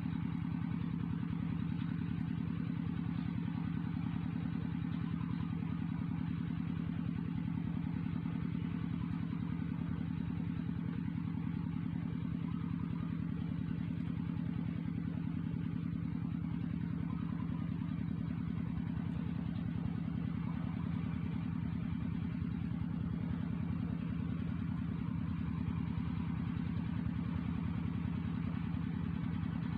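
A small engine or motor running steadily at idle, an even low drone that does not change.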